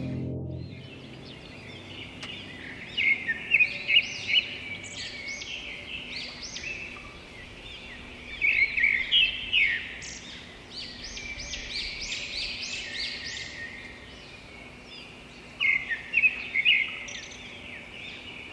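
Small aviary birds chirping: short, high calls in several quick flurries over a faint steady hiss. The tail of a music track fades out in the first second.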